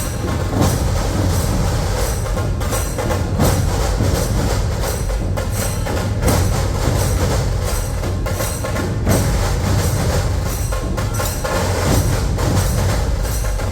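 Dhol tasha ensemble drumming: massed dhol barrel drums beating a fast, driving rhythm under the sharp, rapid strokes of tasha drums, loud and continuous.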